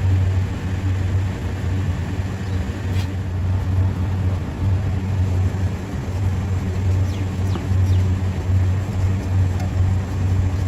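Steady low machinery hum, with a faint click about three seconds in.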